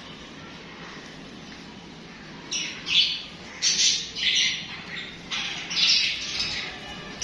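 Budgerigars chirping and chattering: a quiet stretch of background hiss, then from about two and a half seconds in a quick, irregular run of short, high, shrill calls.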